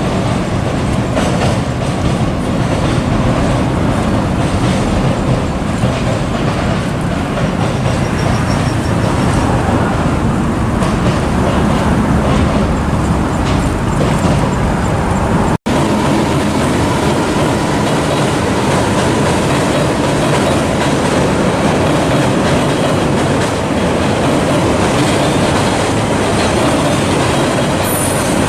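Freight train rolling past, its wheels clacking over the rail joints in a loud, continuous run. The sound drops out for an instant about halfway through.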